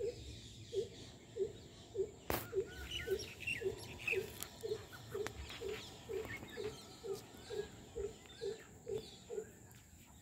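A bird's call: a long series of short, low hooting notes, about two a second, stopping near the end, with small birds chirping faintly and one sharp click about two seconds in.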